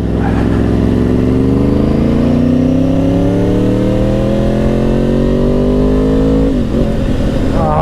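2010 Yamaha R1's crossplane inline-four through dual Yoshimura exhausts, accelerating in one gear with the revs climbing steadily for about six and a half seconds, then a gear change near the end.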